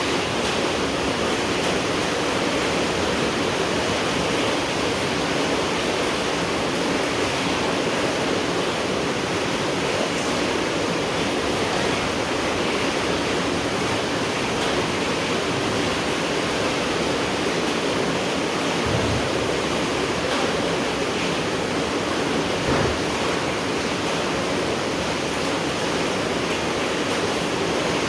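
Steady rain falling, an even dense hiss with no let-up. Two brief low bumps come through in the last third.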